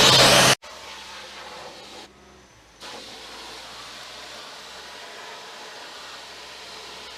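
Sandblaster nozzle blasting abrasive with a loud, steady hiss that cuts off abruptly about half a second in, leaving a much quieter steady hiss and low hum.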